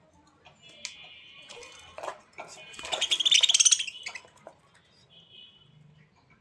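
A bird calling: a short high call about a second in, then a loud rapid chattering call at around three seconds, and a faint brief call near the end.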